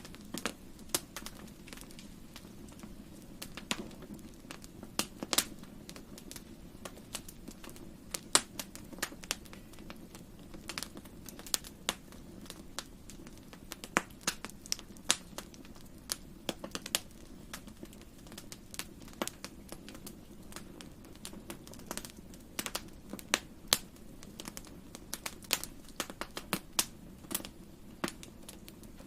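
Wood fire in a fireplace crackling, with irregular sharp pops and snaps, some louder than others, over a low steady rumble of the flames.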